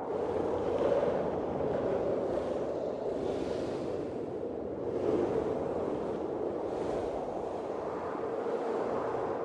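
Blizzard wind blowing steadily, swelling in gusts every second or two.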